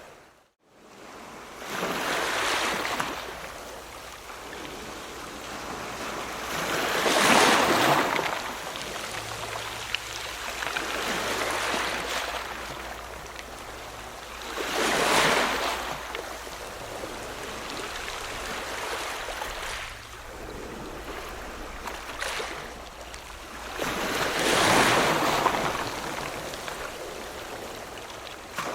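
Ocean waves breaking: a steady wash of surf, with four big surges that build and fade over a couple of seconds each, several seconds apart.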